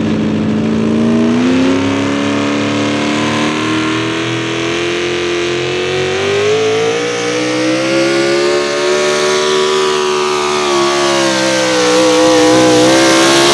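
A National Sportsman 4x4 pulling truck's 650-cubic-inch naturally aspirated wedge-head engine running at high revs under load during a pull, its pitch climbing steadily over the first several seconds, dipping slightly, then holding high near the end.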